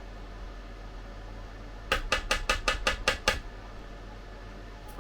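A quick run of about eight sharp knocks of a kitchen utensil against a dish, knocking sticky parkin batter off it, with one more knock at the very end.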